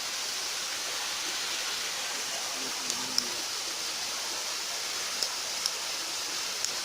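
Steady rush of flowing shallow river water, with a few faint sharp clicks from about three seconds in.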